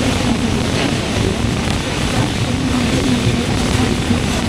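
Broad-gauge passenger train running at speed: a steady loud rumble of wheels on the rails, with wind rushing over the microphone held outside the coach.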